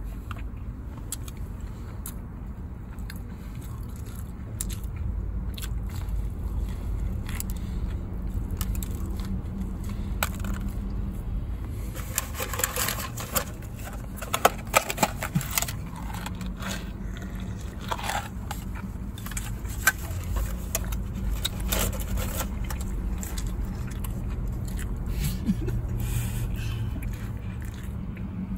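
A person chewing a mouthful of crispy fried chicken sandwich fast, with wet mouth clicks and crackles of the breading, thickest about halfway through. A steady low hum runs underneath.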